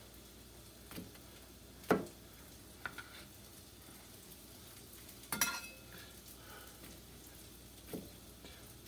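Beef burger patties sizzling faintly and steadily in a frying pan, with a few separate knocks and clinks of kitchen utensils, the loudest about five and a half seconds in.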